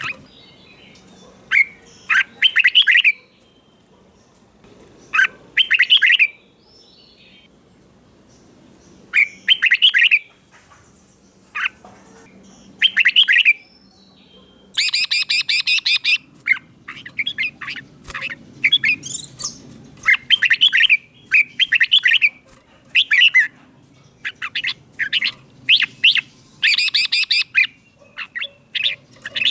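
Red-whiskered bulbul singing: short whistled phrases every few seconds at first, then coming thick and fast through the second half.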